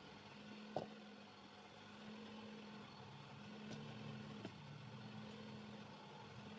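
Faint, steady engine hum of an idling motor, with a few light clicks, the clearest about a second in.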